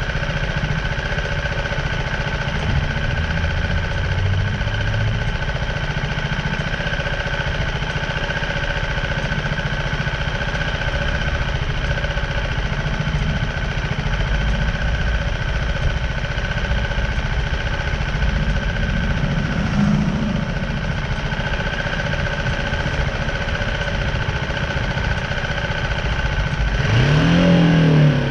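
BMW G310R's single-cylinder engine idling steadily at a stop, then revving up as the bike pulls away near the end.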